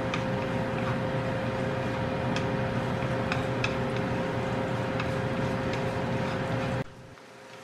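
Chopped onion and garlic sizzling in hot oil in a frying pan, with occasional light clicks of chopsticks against the pan, over a steady hum. The sound drops off abruptly near the end, leaving it much quieter.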